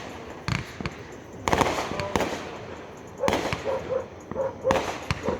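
Fireworks going off: a string of sharp bangs, about six, at uneven spacing.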